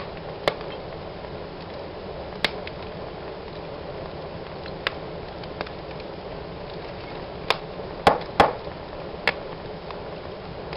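Wood fire burning in a fireplace: a steady low hiss of flames with sharp crackling pops every second or two, the loudest few close together about eight seconds in.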